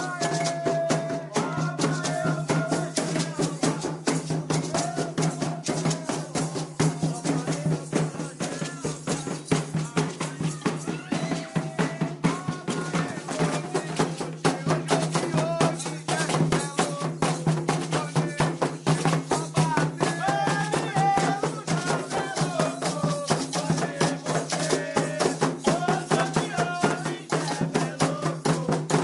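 Candomblé ceremonial music: hand drums beaten in a fast, dense rhythm with rattles shaking, and voices singing over them, over a steady low hum.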